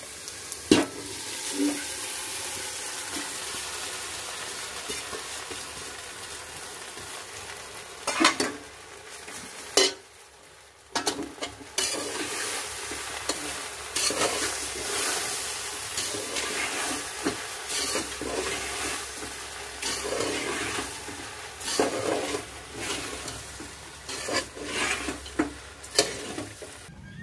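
Washed puffed rice (murmura) sizzling in hot oil in a metal pot as it is stirred into a fried tempering of peanuts, onion and green chilli. A steady frying hiss is broken every few seconds by the knock and scrape of a metal spatula against the pot.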